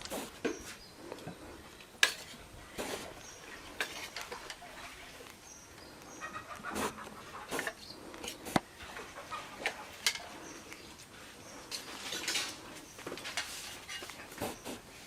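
Irregular clinks and knocks of utensils against cooking pots and dishes, a few sharp strikes standing out among lighter clatter.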